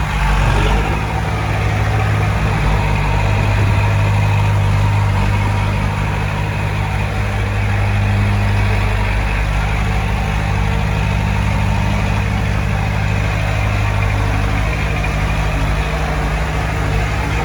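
Heavy diesel engine of earthmoving machinery running steadily, with a deep, even engine note and little change in speed.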